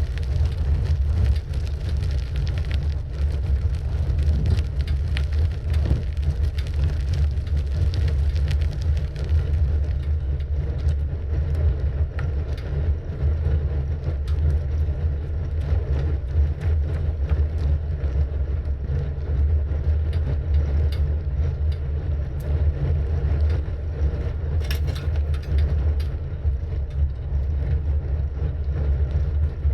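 Steady low rumble of wind and tyre noise picked up by a camera riding on a moving bicycle, with scattered small clicks and rattles from the bike.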